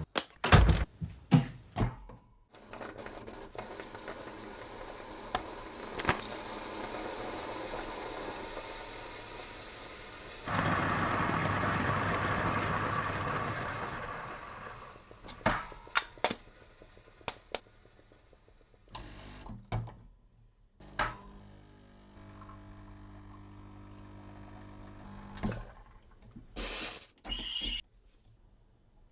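Coffee being made by hand: cups and utensils clink and knock, a coffee machine runs for several seconds and gets louder partway through, then a quieter steady hum follows, with more knocks near the end.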